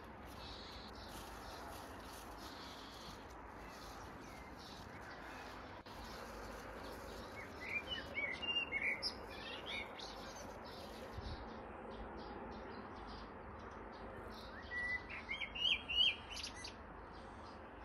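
Small birds chirping in two short bouts, one about halfway through and one near the end, over a steady outdoor background hiss.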